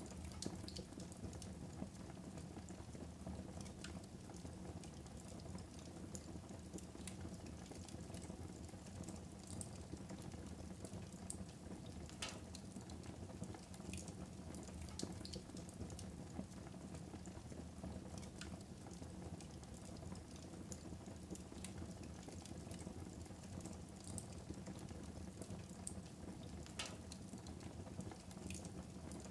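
Wood fire burning in a fireplace: a steady low rushing of the flames with scattered sharp crackles and pops, two of them louder, about twelve seconds in and near the end.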